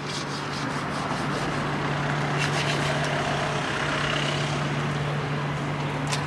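Train running at the station: a steady low engine hum under a broad rushing noise that grows louder over the first couple of seconds, with a few short clicks.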